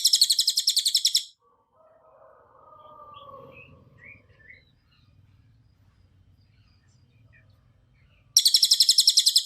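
Cililin songbird singing: a loud, very rapid high trill of about fifteen notes a second for just over a second at the start, soft faint notes in between, and a second identical rapid trill starting near the end.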